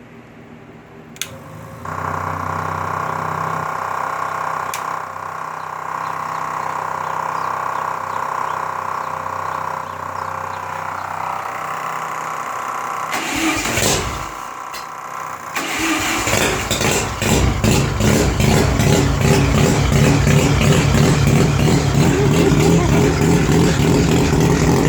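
Formula Mazda race car's 13B two-rotor Wankel engine being started for the first time this season. A click comes about a second in, then a steady whir for about eleven seconds and a short loud burst. About two-thirds of the way through the engine catches and runs loud with a rapid, choppy pulse.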